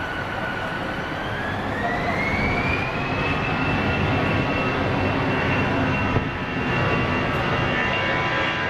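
Airbus A319 business jet's CFM56 turbofan engines spooling up, with a whine that rises in pitch over the first three seconds and then holds steady over a broad jet rumble: the engines coming up to takeoff power.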